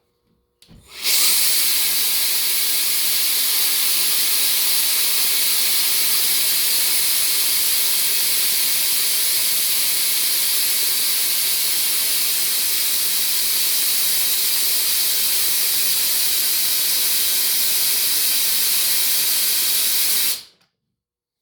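Steady hiss of air from an electric air duster blowing into a small two-cylinder air engine, switched on about a second in and cut off about a second before the end.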